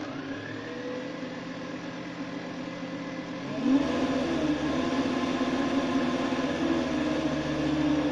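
Remote-control bait boat's small electric propeller motors whining steadily, then picking up speed and getting louder about three and a half seconds in.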